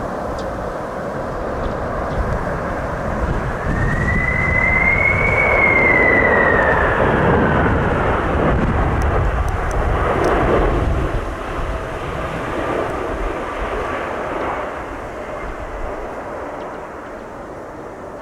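Jet airliner passing low on landing approach. Its engine rumble swells to a peak about six seconds in, with a high whine that rises and then falls in pitch as it goes by, then fades away.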